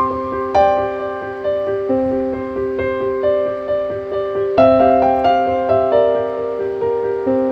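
Background piano music: a gentle, repeating pattern of held notes.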